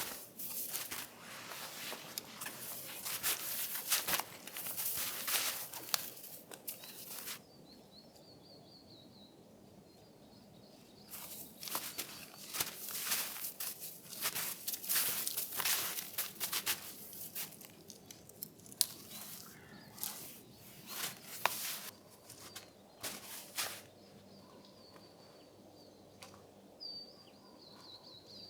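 Crunching and rustling in two long stretches, with a few faint bird chirps in the pause between them and again near the end.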